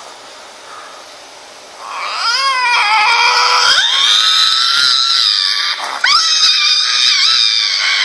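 Lynx yowling: after a quiet start, a long, wavering scream begins about two seconds in and rises in pitch. It breaks off briefly near the six-second mark before a second long call.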